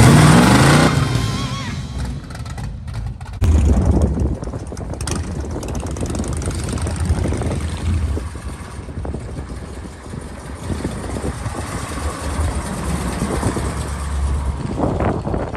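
Music fading out over the first second or two, then a vehicle engine rumbling low and unevenly.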